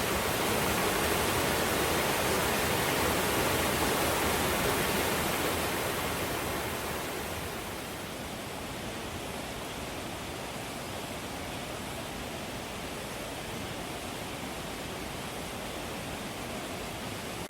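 Mountain stream water rushing, a steady wash of sound that is louder for the first six seconds or so and then eases to a softer steady rush by about eight seconds in.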